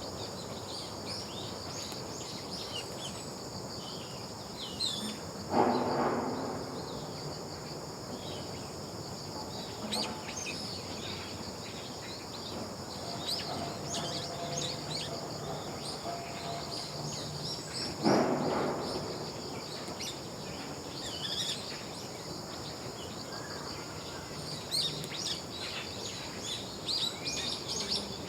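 Small birds chirping and calling in short high notes over a steady high-pitched insect drone in a wooded park. Two brief, louder rushing noises come through, about five and a half seconds in and again about eighteen seconds in.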